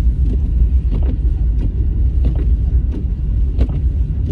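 Car driving, heard from inside the cabin: a steady low road and engine rumble, with a short knock recurring about every two-thirds of a second.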